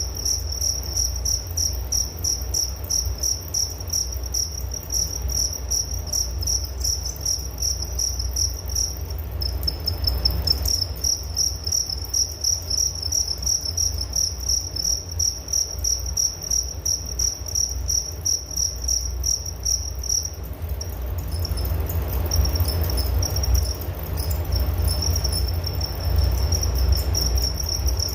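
Crickets chirping in a fast, even, high-pitched pulse that falters and thins out about twenty seconds in, over a steady low rumble.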